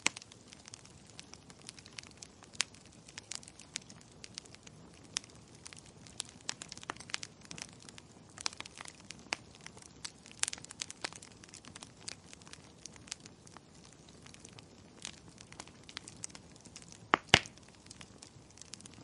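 Wood fire crackling: irregular sharp pops and snaps over a faint steady hiss, with a pair of louder pops about seventeen seconds in.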